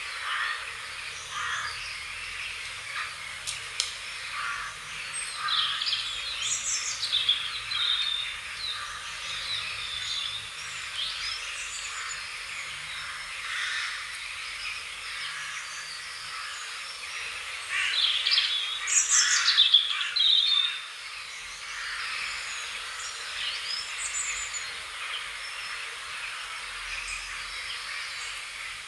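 Wild birds chirping and calling, many short, quick notes. The birdsong is densest about six seconds in and again in a louder burst near nineteen seconds.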